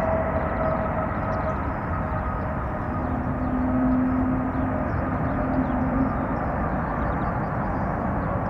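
Airbus A220-300's Pratt & Whitney geared turbofan engines running, a steady jet rumble with thin whining tones that fade over the first half and a lower hum for a few seconds in the middle.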